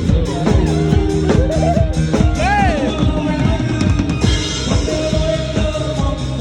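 Drum kit played loud and fast over a pop-dance backing track, with a sung line gliding in pitch about two and a half seconds in, all heard through a PA sound system.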